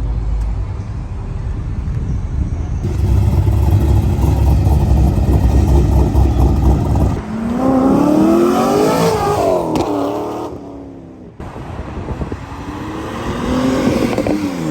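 Loud car exhaust rumbling low, then an engine revving up with a rising pitch as a car accelerates hard. After a short drop-out, another engine rises in pitch near the end.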